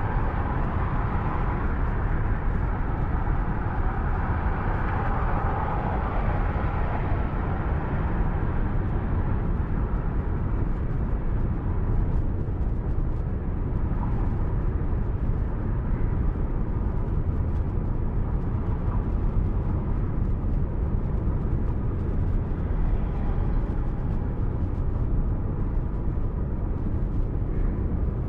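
Steady road and engine noise of a car driving along, picked up by a dashcam, with no breaks or sudden events.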